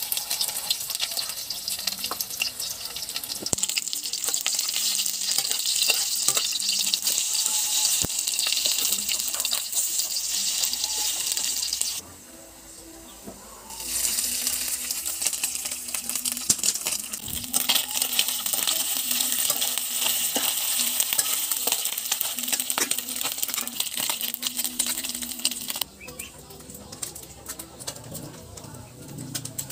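Garlic cloves and then sliced mushrooms sizzling in a hot steel wok, with a brief lull near the middle. The sizzling stops a few seconds before the end.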